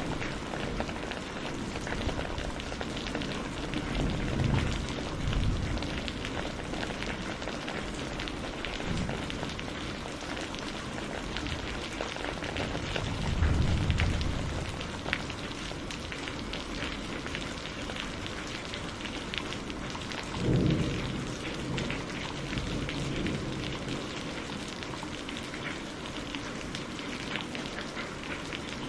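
Steady rain with many small patters and clicks, and distant thunder rumbling low three times, the loudest swell about halfway through.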